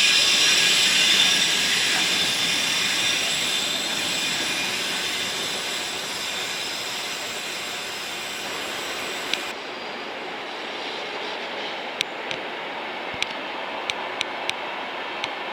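Train wheels squealing on the rails, several steady high-pitched tones over the rolling noise, fading away as the train moves off. In the second half a few sharp clicks ring out.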